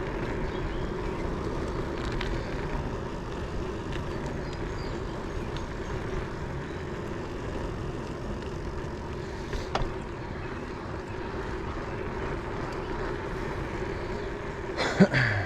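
Steady riding noise from a bicycle on a suburban road: wind on the microphone and tyres rolling, with a faint steady hum. A brief click about ten seconds in and a louder knock near the end.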